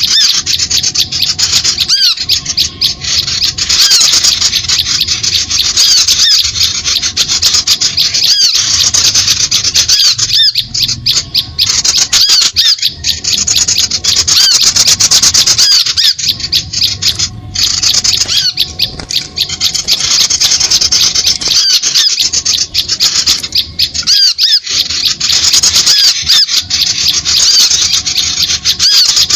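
Bird-luring call recording: many small birds chirping and squeaking in a dense, rapid, high-pitched chatter, played loud to draw small birds in.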